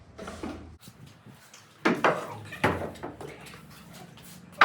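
Hard objects clattering as they are handled and moved, with two loud knocks close together a little under halfway in, each ringing briefly.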